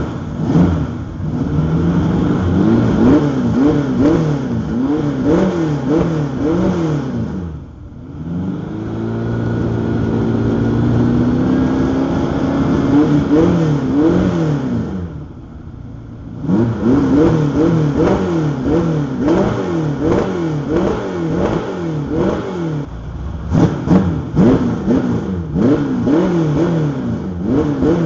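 350 V8 with 180-degree headers and Dr. Gas FreqMod mufflers being revved in place: a run of quick throttle blips, then one slower, longer climb in revs about eight seconds in, then more quick blips. The engine is on its first start after major exhaust modifications, its computer not yet adjusted to the new exhaust.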